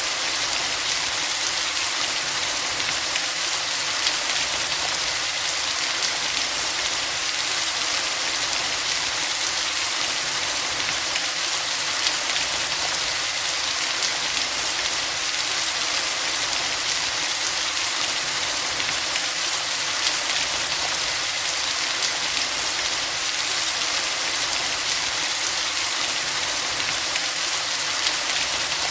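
Steady rain falling, an even hiss with a light patter of drops that neither builds nor eases.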